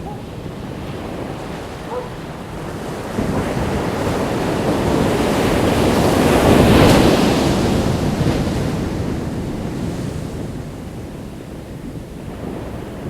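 Ocean waves on a beach: one wave builds over a few seconds, breaks about seven seconds in, and washes back down, with wind on the microphone throughout.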